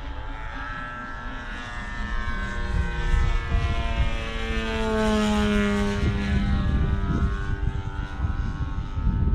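Engine and propeller of a large radio-controlled Pitts Special model biplane flying past, growing louder and then dropping in pitch as it goes by about five seconds in.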